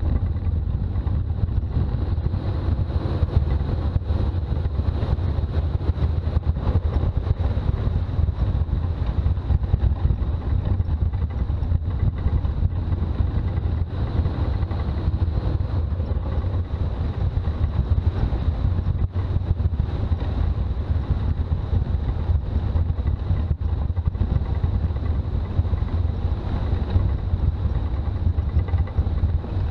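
Toyota BJ40 Land Cruiser driving, its diesel engine and the road noise making a steady low rumble that holds even throughout.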